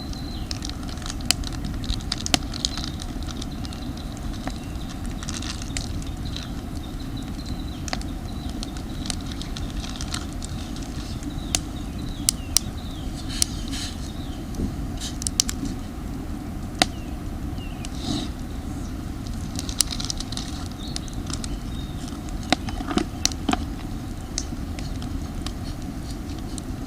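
Campfire of damp firewood crackling, with sharp irregular pops over a steady low rumble.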